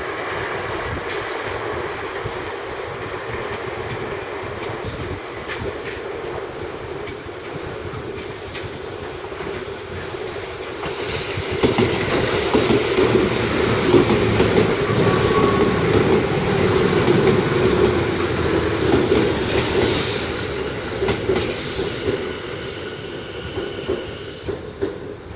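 Electric commuter train running on the Tobu Railway, with steady wheel-on-rail noise that grows louder about halfway through as it comes closer. Two sharp clacks come near the end.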